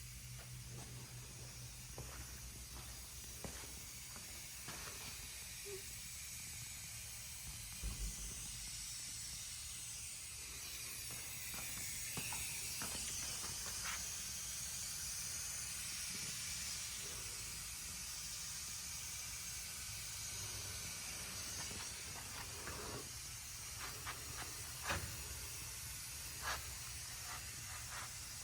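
Steady high hiss of compressed air from a dry ice blasting nozzle, swelling in the middle, with scattered sharp ticks and a low hum underneath.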